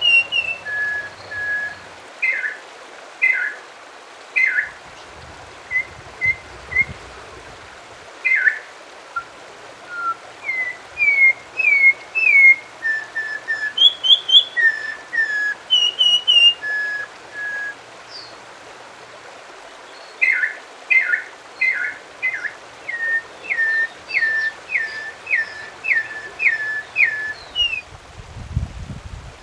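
A songbird singing a varied series of clear whistled notes and short gliding phrases, with pauses between them, then a run of about a dozen repeated notes near the end.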